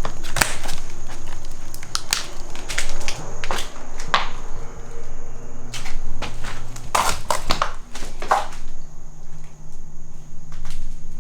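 Footsteps crunching over debris strewn across a vandalised floor, an irregular run of sharp crunches and crackles.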